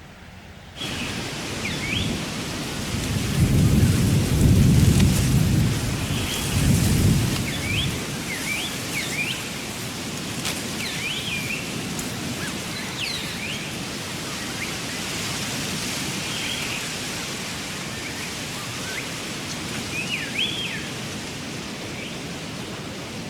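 Rain falling steadily, starting abruptly, with a deep rumble of thunder swelling and fading over several seconds near the start. Short high chirps come and go above the rain.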